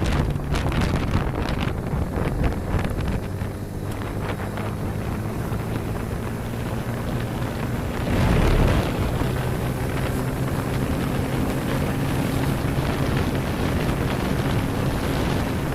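Motorcycle engine running steadily while riding, under heavy wind buffeting on the microphone. A louder rush of noise comes about eight seconds in.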